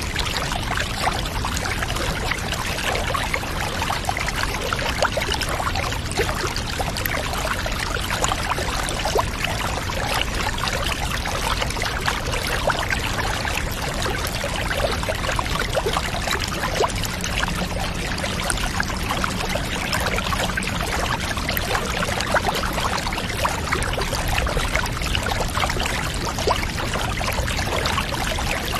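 Steady running water, pouring and trickling without a break, at an even level throughout.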